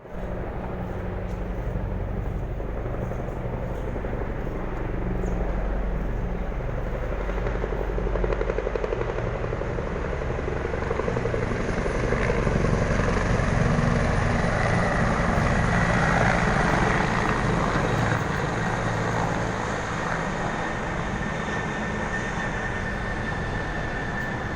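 Helicopter flying by: a steady rapid rotor chop with engine noise, growing louder to a peak about halfway to two-thirds through and then easing off, with a turbine whine rising in near the loudest part.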